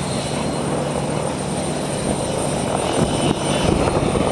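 Aircraft engine running steadily, with a steady low hum and a rough rumble that grows slightly busier near the end.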